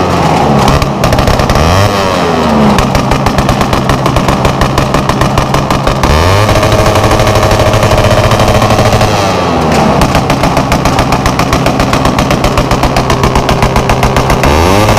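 Drag-built underbone motorcycle engine revved hard through an open exhaust: the pitch climbs, holds high and drops several times, with a rapid, rattling crackle of exhaust pulses at high revs.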